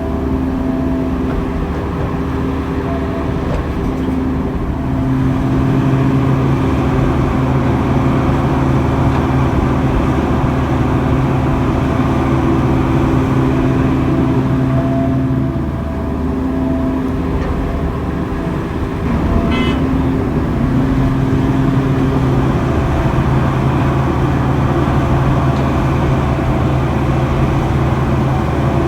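Diesel engine of heavy earthmoving machinery running continuously, its note easing off and picking up again as the load changes. A brief clatter is heard about two-thirds of the way through.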